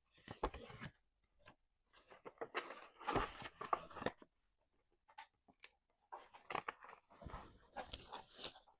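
A bag being crinkled, rustling and crackling in three irregular bouts.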